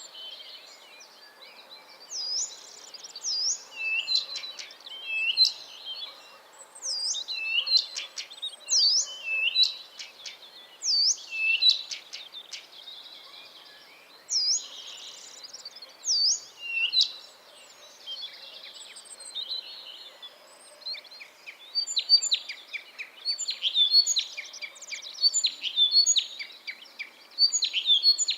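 Songbirds singing: clear swooping whistled notes repeated every second or so, then a faster, denser twittering in the last third.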